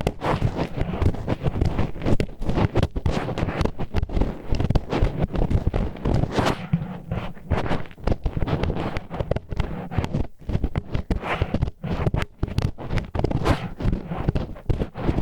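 Disposable wooden chopsticks scraping the ear wall of an ASMR microphone in ear-cleaning strokes: a dense, unbroken run of rough, grinding scrapes.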